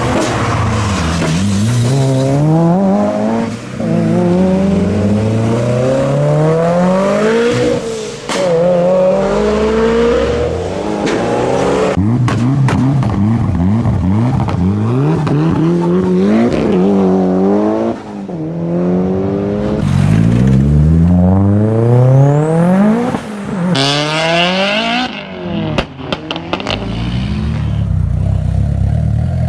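Mitsubishi Lancer Evolution's turbocharged inline-four engine revving hard, its pitch climbing and dropping back over and over across several short clips.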